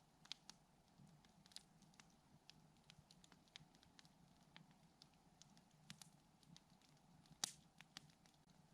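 Wood campfire crackling faintly: irregular sharp snaps and pops, one louder pop about three-quarters of the way through.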